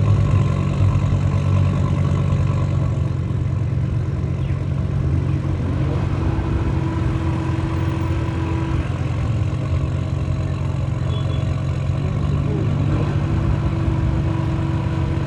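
Car engine idling steadily, its low hum holding at an even level.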